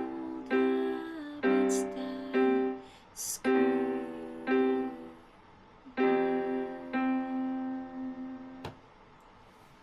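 Piano playing slow, sustained chords, about eight struck and left to ring, as the closing bars of a song; the last chord fades and cuts off with a click near the end.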